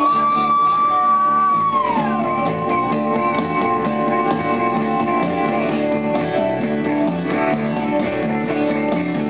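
A live rock band plays an instrumental passage over strummed guitar chords. A lead line holds a high note, slides down about two seconds in, then holds another note for a few seconds.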